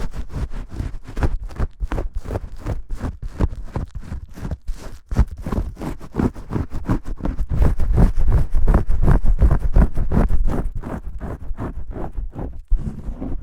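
Vigorous shampoo scrubbing: hands rubbing lather fast and hard, a dense run of rough rubbing strokes, loudest a little past the middle.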